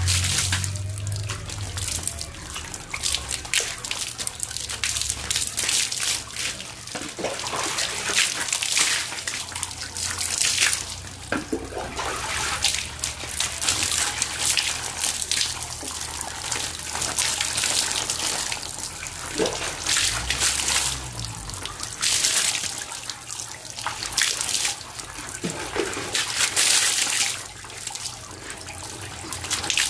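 Water pouring and splashing in irregular gushes while a dog is bathed.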